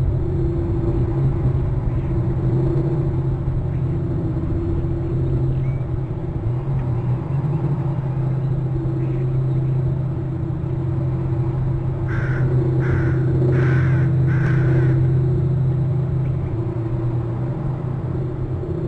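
A bird calls four times in quick succession, under a second apart, over a steady low rumble.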